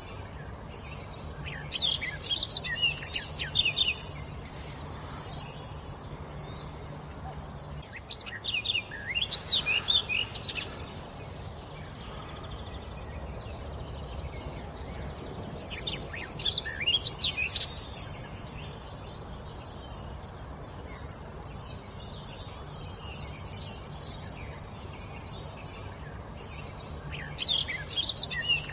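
A songbird singing four short phrases of quick, sliding whistled notes, one phrase every several seconds, over a faint steady low hum.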